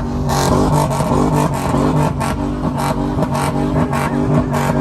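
Car engine revved up and held at high revs in a steady drone, with sharp cracks running through it.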